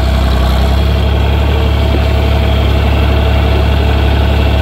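John Deere 4020 tractor engine running steadily, a deep even drone.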